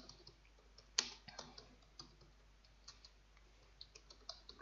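Faint computer keyboard typing: irregular light key clicks in small runs, with one louder click about a second in.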